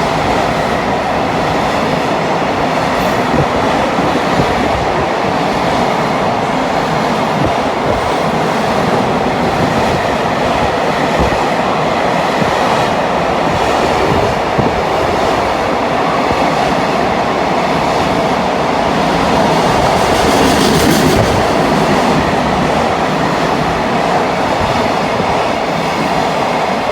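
Freight train passing through a station: a steady, loud rumble of its wagons' wheels on the rails, swelling a little about twenty seconds in.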